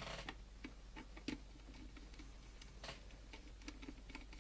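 Faint, irregular light clicks and taps, about a dozen, the sharpest about a second in: small parts and wiring of an open power supply being handled.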